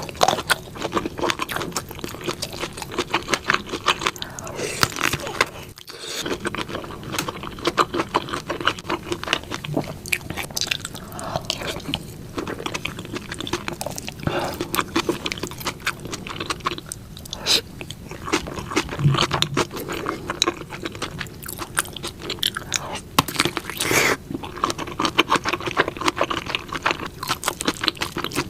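Close-miked eating sounds: a person chewing and biting food, with dense, irregular wet clicks and some scraping.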